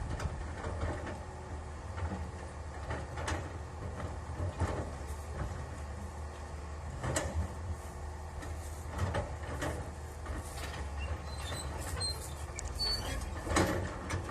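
Komatsu PC200 hydraulic excavator's diesel engine running steadily, with sharp metallic knocks at irregular intervals every second or two, the loudest near the end.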